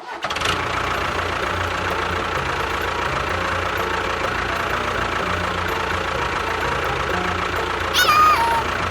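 Engine running steadily at idle with an even knocking beat. About eight seconds in, a short whistle-like tone slides downward over it.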